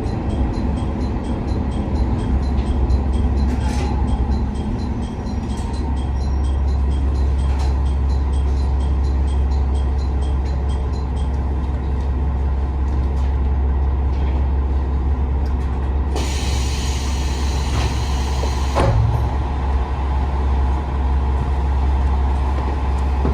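JR West KiHa 47 diesel railcar's engine running with a steady low hum, with faint regular ticking in the first half. About two-thirds of the way through, a loud hiss of released compressed air lasts nearly three seconds, then a single thump.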